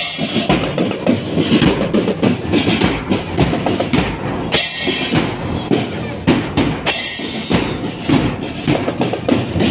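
School marching drum band playing: a busy beat of snare and bass drums, with bright cymbal crashes at the start, about halfway through and again a couple of seconds later.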